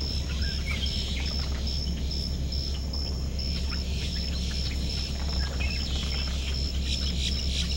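Birds chirping over a steady low rumble, with a regular high-pitched pulsing throughout. About seven seconds in, a rapid run of sharp, squawking calls begins.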